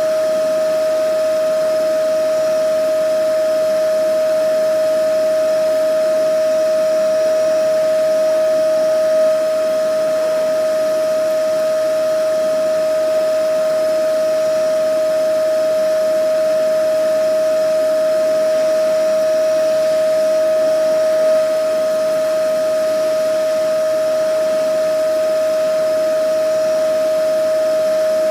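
Vacuum cleaner running continuously, its motor giving a constant steady whine over the rush of air.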